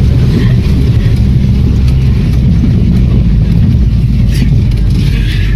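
The engine of an old GAZ off-road vehicle running as it drives, a loud steady low drone, with a couple of short higher noises near the end.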